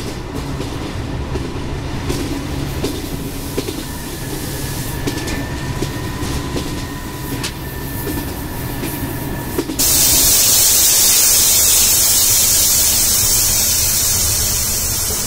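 Train running on its track: a steady rumble with scattered rail clicks and a faint steady whine. About ten seconds in, a sudden loud hiss starts and carries on over the running sound.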